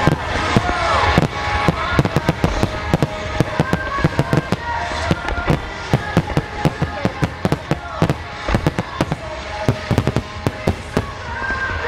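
Marugo display fireworks: aerial shells bursting in a dense barrage, many sharp reports a second, thinning out near the end. Music plays underneath.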